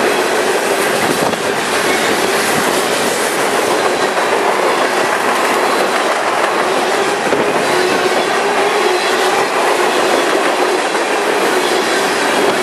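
Freight train cars, including tank cars, rolling past at close range: a loud, steady noise of steel wheels running on the rails.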